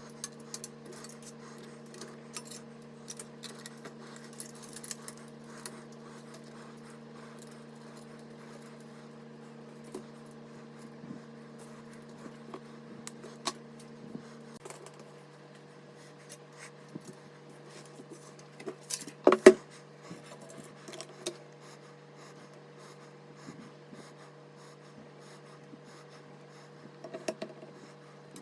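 Small clicks, taps and light metallic rattles of computer hardware being handled during a PC build, over a steady electrical hum. Part of the hum stops about halfway, and a sharper burst of clattering clicks comes about two-thirds of the way through.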